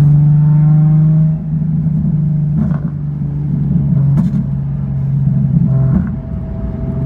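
2007 Nissan 350Z HR's VQ35HR V6, fitted with an aftermarket exhaust, running with a loud, steady drone that drops in pitch about a second and a half in and dips briefly again near the end.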